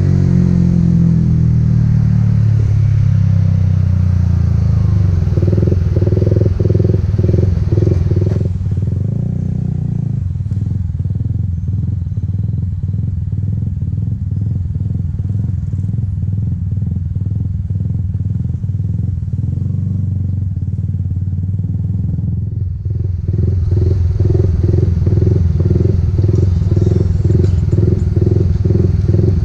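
Motorcycle engine running at low revs. Its pitch winds down over the first few seconds, then it settles into a steady, rhythmically pulsing idle. It drops quieter about eight seconds in and comes back louder after about twenty-three seconds.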